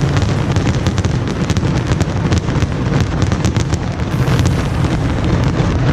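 Aerial fireworks display going off in rapid succession: a continuous rumble of booms with many sharp crackles and pops on top.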